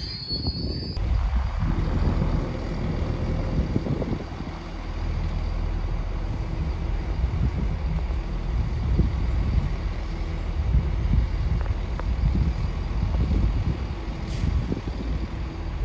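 Train at the station: a high wheel squeal cuts off about a second in, giving way to a heavy, steady low rumble with a deep drone and occasional knocks.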